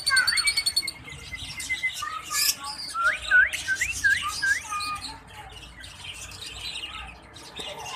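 Lovebirds chirping: a thin held call in the first two seconds, then a quick run of about five short rising chirps about three seconds in, followed by quieter calls.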